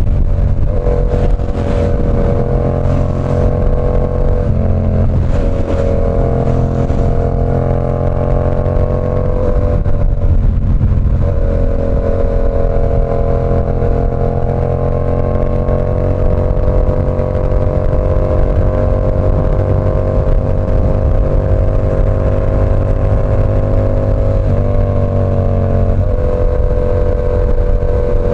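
Yamaha R7's 689 cc parallel-twin engine through an SC Project CR-T exhaust, running under way at a steady pitch. The note breaks and shifts briefly a few times, most clearly about ten seconds in.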